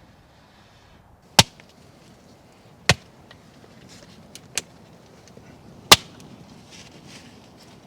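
Wood being chopped: three loud, sharp strikes spaced about one and a half to three seconds apart, with a lighter strike between the second and third.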